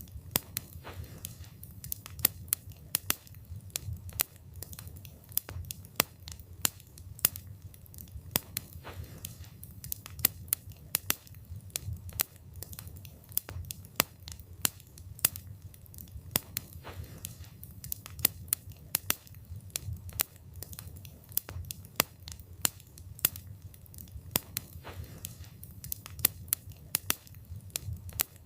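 Wood fire burning, the logs crackling and popping irregularly, several sharp pops a second, over a low steady rumble of the flames.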